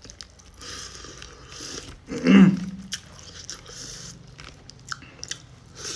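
Close-up eating sounds of a person chewing rice and meat curry eaten by hand, with soft repeated mouth and chewing noises. About two seconds in there is a short voiced sound, a hum or brief vocal noise, falling in pitch, and it is the loudest moment.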